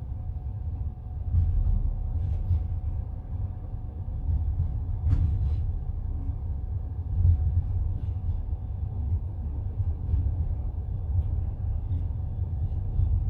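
Passenger train carriage rumbling steadily on the rails, heard from inside the car, with scattered clicks and knocks from the wheels and coach, the clearest about five seconds in.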